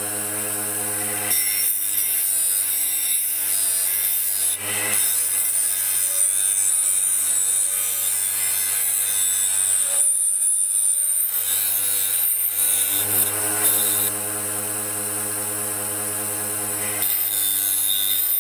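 Abrasive rubbing and scrubbing on the lantern's rusty sheet metal during rust removal, a rough, steady scraping over a steady hum. It eases off for a moment around the middle.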